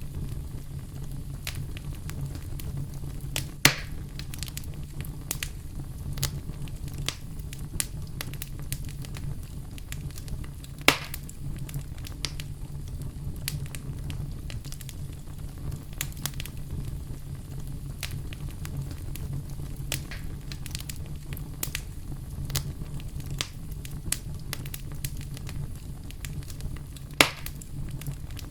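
Bonfire burning: a steady low rumble under scattered crackles, with three sharper, louder pops about 4, 11 and 27 seconds in.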